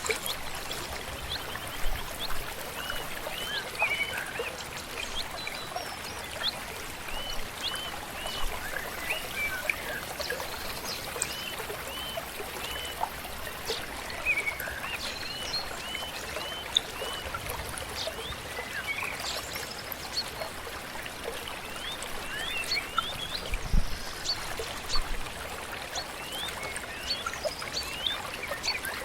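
Running water of a stream flowing steadily, with birds singing throughout in many short, quick chirps. A single low thump about three quarters of the way through.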